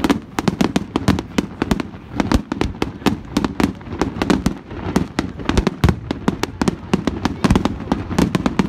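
A fireworks display going off: a rapid, uneven string of sharp bangs and crackles, several a second without a break.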